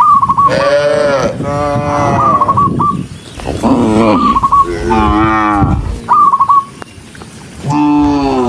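Cattle mooing: four or five long, loud moos in quick succession from several animals, each bending in pitch, with a lull about two-thirds through before another starts. A short high chirp recurs about every two seconds between the moos.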